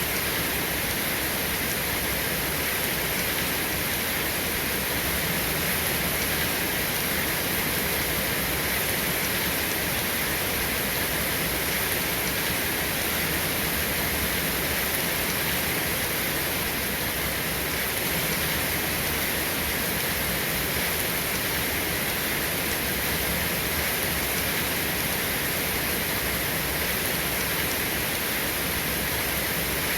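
Steady rain, an even hiss that holds the same level throughout, with no thunder.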